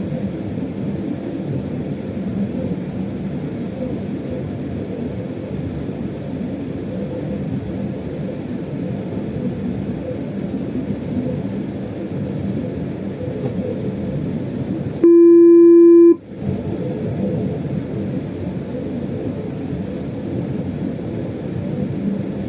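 Steady rumble of a German freight train running, heard from inside the locomotive cab. About fifteen seconds in, a loud, steady electronic beep lasts about a second while the running noise drops out, then the rumble resumes.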